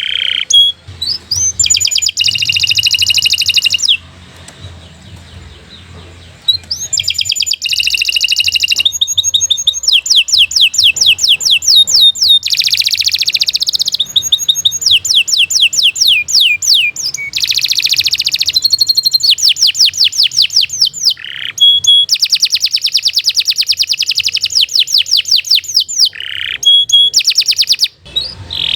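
Domestic canary singing a long, continuous song of fast rolling trills, each phrase a rapid run of repeated high notes that changes to a new trill every second or two. There is a short break about four seconds in.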